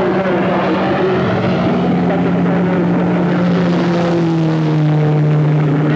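Engines of cars circulating on a race track, a steady drone in which one engine note slowly falls while another slowly rises.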